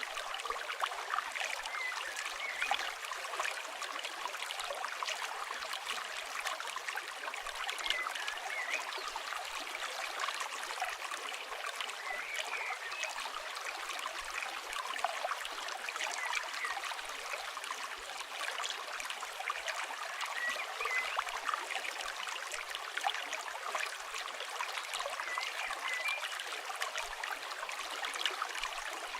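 Flowing river water running steadily, with the crackle of a campfire and short bird chirps every few seconds.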